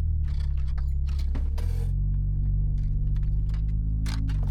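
Truck engine running steadily with a low hum, heard from inside the cab, overlaid with a string of light clicks and metallic rattles from objects being handled.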